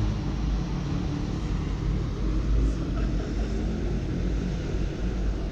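Steady low rumble of urban background noise, with no distinct events.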